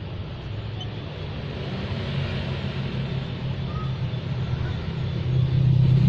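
A low, steady engine-like hum that grows louder about five seconds in, with a few faint bird chirps.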